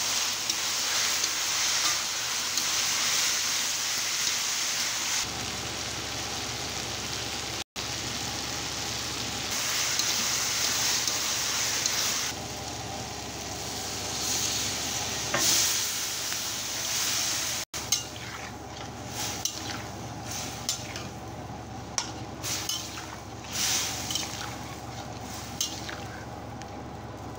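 Diced potatoes and tomato sizzling in hot oil in a steel kadhai while a metal spatula stirs and scrapes the pan. Water is poured in partway through; after that the sizzle is quieter, broken by many separate clicks of the spatula against the pan.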